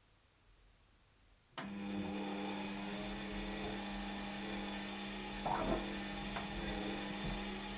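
Washing machine starting up with a click about a second and a half in, then running with a steady electric hum, with a brief rattle in the middle and a sharp tick later on.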